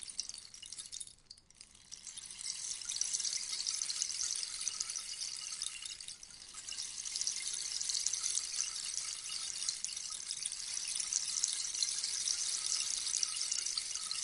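Rainstick: pebbles or seeds trickling down through the tube in a dense, rain-like patter. The flow dies away to a brief lull about a second in as the stick is turned over, then builds again, with a smaller dip around six seconds.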